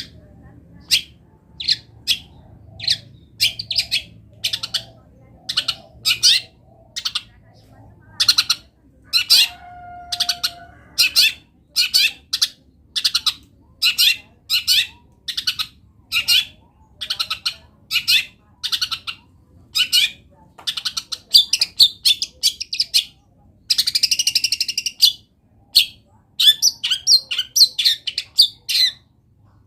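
Long-tailed shrike (cendet) singing a rapid string of short, high chirps and whistled phrases, its song full of mimicked calls of other wild birds. One harsh rasping call, about a second long, comes near the end.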